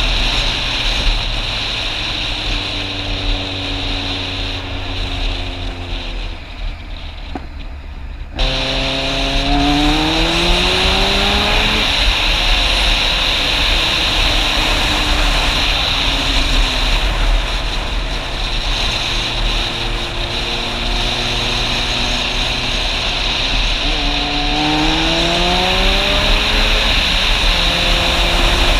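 Motorcycle engine on the move. The pitch falls as it slows, then about eight seconds in it accelerates with the pitch climbing and dropping back at a gear change, and it accelerates again near the end. A steady rushing hiss runs underneath.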